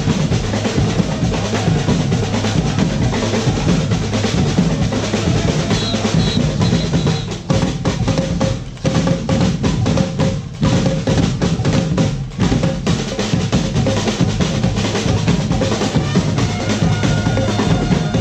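Drum ensemble playing a dense, driving rhythm on snare and bass drums, with a few brief breaks in the middle.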